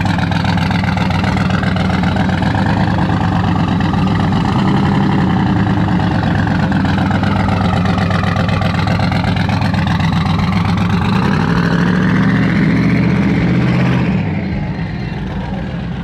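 A vehicle engine running steadily, fading out over the last couple of seconds.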